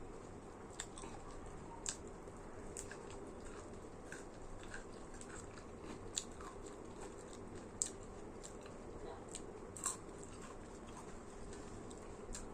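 A person chewing food, with sharp wet mouth clicks and smacks scattered through, about half a dozen of them standing out, over a steady low hum.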